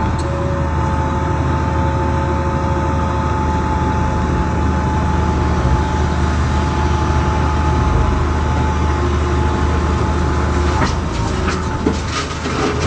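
JCB backhoe loader's diesel engine running steadily under load, with a constant whine over the low rumble. Toward the end come a few sharp knocks and clatter.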